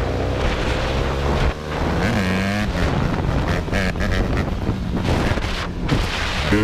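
Dirt bike engines running, their revs rising and falling, with wind buffeting the microphone.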